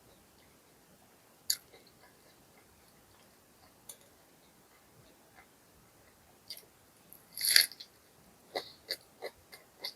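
Close-miked eating of fried fast food: a few faint mouth clicks, then a loud crunchy bite about seven and a half seconds in, followed by chewing in a run of short, quick clicks.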